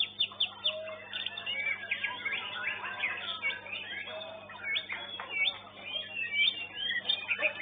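Caged contest songbirds singing busily, with rapid whistles, chirps and trills overlapping one another, over a steady low electrical hum.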